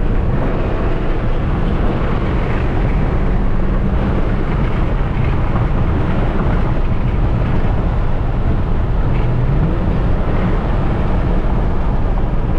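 Car driving at speed, with a steady engine note over heavy road and wind noise. The engine pitch climbs again about nine to ten seconds in as it accelerates.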